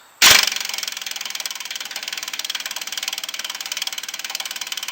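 Impact wrench hammering on a stubborn bolt: it starts suddenly with a loud first blow and then runs as a rapid, even stream of impacts.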